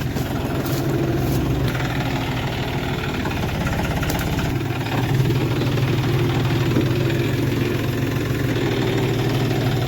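John Deere tractor's diesel engine running steadily while maneuvering a trolley loaded with wood. Its note changes about halfway through as the engine comes under more load.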